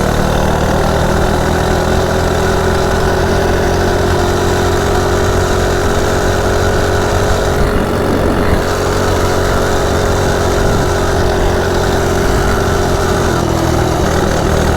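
Coleman CT100U minibike's small single-cylinder engine, its governor removed, running steadily at a held speed; the pitch eases slightly at the start and dips a little near the end.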